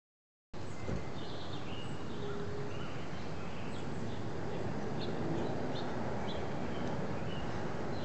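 Small birds chirping outdoors, short high calls scattered throughout, over a steady low background rumble.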